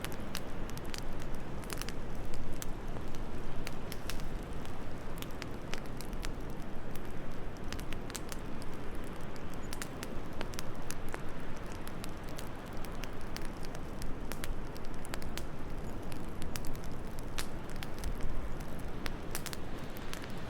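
Wood fire crackling with irregular sharp pops over a steady rush of wind.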